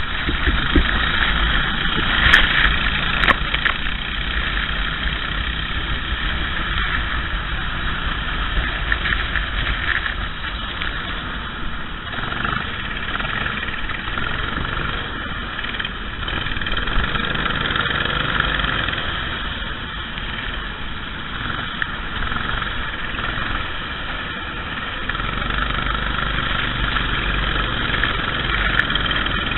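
Racing kart engine running steadily, with small changes in level.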